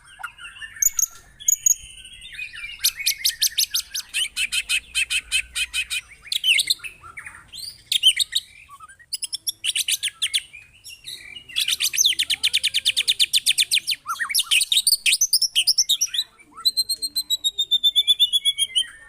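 White-rumped shama (murai batu) singing loudly in long runs of fast, harsh repeated notes, the rough 'tembakan' bursts, broken by varied warbled phrases. Near the end comes a string of short, clear whistled notes.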